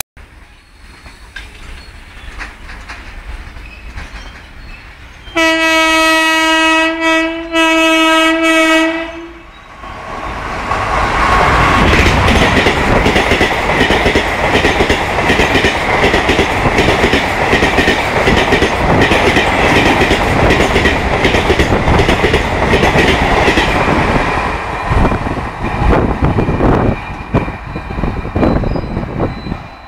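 A WAP-4 electric locomotive hauling a passenger express approaches with a growing rumble and sounds its horn in two long blasts about five seconds in. Its coaches then pass close at about 110 km/h with a loud, rapid clatter of wheels on the track for about fourteen seconds. The clatter fades as the train draws away.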